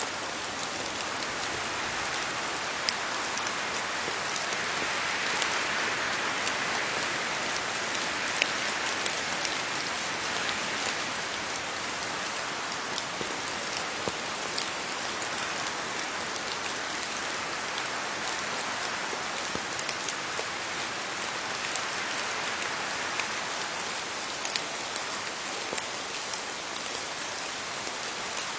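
Steady rain falling on leaves, an even hiss with many individual drops ticking through it, swelling slightly a few seconds in and easing again.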